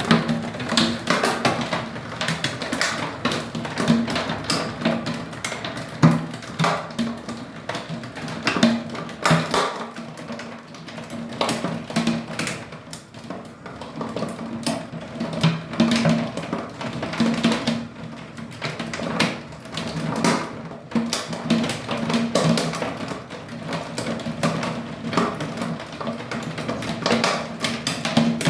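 Hailstones striking a hard surface in a dense, irregular patter of sharp taps and knocks.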